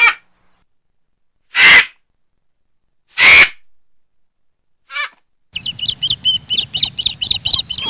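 Birds calling: three loud, short, harsh calls about a second and a half apart, then a brief pitched call and a fast run of high chirps near the end.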